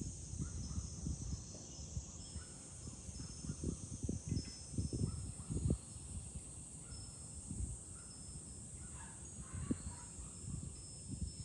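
A chorus of cicadas buzzing steadily, with gusts of wind rumbling on the microphone.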